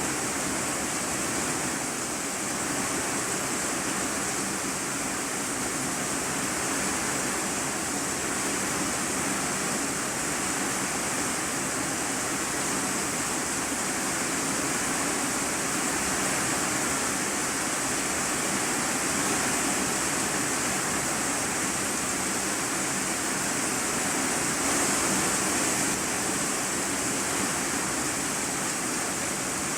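Heavy rain drumming on an iron-sheet roof, heard from the room beneath as a steady, even hiss.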